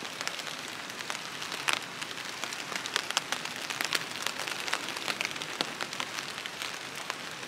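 Rain falling steadily, a continuous hiss scattered with many sharp individual drop taps.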